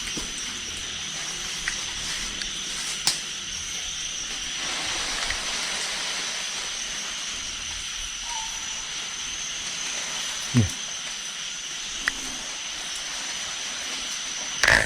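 Steady high-pitched night insect chorus over a background hiss, with a few faint clicks and one brief low thud about two-thirds of the way through.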